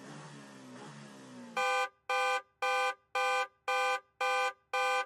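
Soft background music, then from about a second and a half in a loud electronic alarm beeping about twice a second, the buzzer sound effect of a quiz countdown timer running out.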